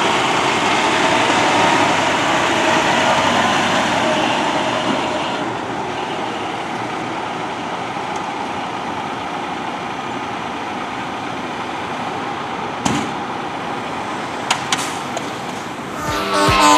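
Fire engine's diesel engine running at a steady idle, with road traffic noise, somewhat louder for the first few seconds. A few short knocks come near the end, and a wavering tone starts right at the very end.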